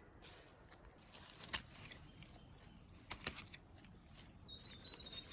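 Quiet forest ambience with a few soft clicks and rustles from handling plants, and a bird calling with a thin, wavering whistle near the end.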